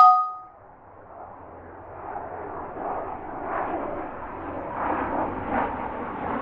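Airliner on final approach, its engine noise growing steadily louder as it comes in toward overhead. A brief loud tone sounds at the very start.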